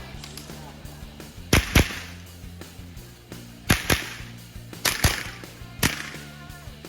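Armscor M22 .22 LR rimfire rifle firing five sharp cracks at uneven intervals, two of them close together about a second and a half in, over a steady low hum.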